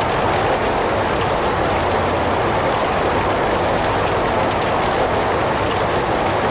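Heavy rain falling steadily: a dense, even hiss with no single drops standing out and no change in level.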